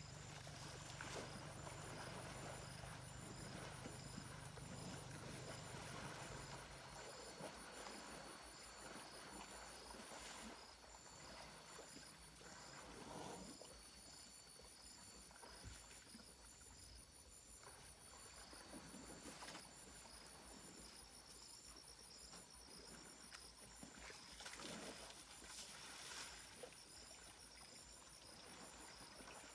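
Faint insects trilling in steady, evenly pulsed high tones. A low hum stops about seven seconds in, and a few faint rustles come now and then.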